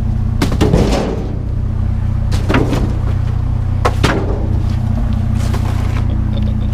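Discarded junk being tossed back into a dumpster: a few separate knocks and clatters, the loudest near the start and about four seconds in, over a steady low engine hum.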